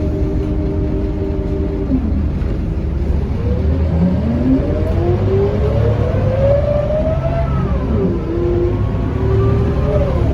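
Scania K230UB Euro 4 bus accelerating under load, its ZF automatic gearbox whining over the steady low drone of the diesel engine. The whine rises in pitch from about four seconds in as the bus gathers speed, then falls sharply at an upshift near eight seconds, climbs again and falls at a second shift near the end.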